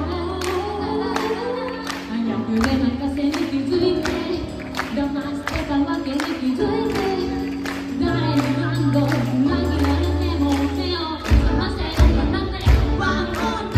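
A band playing a song with a singer over steady bass notes and a regular beat; the drums hit harder near the end.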